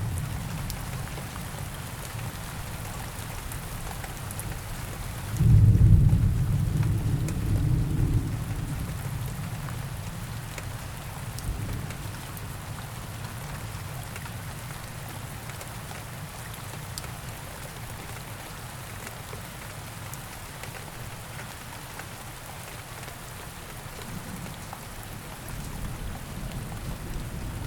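Steady rain falling in a forest, with scattered drip ticks. About five seconds in, a low rumble of thunder rolls in suddenly and fades away over a few seconds.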